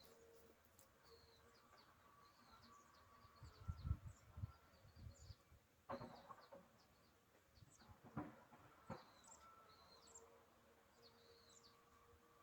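Faint small birds chirping again and again, with a few dull thuds about four seconds in and three sharp knocks later on.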